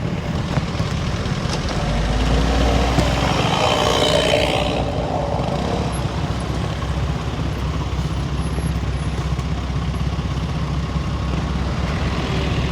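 Steady road and engine rumble of a car being driven, with a louder swell that builds about two seconds in and fades by about five seconds.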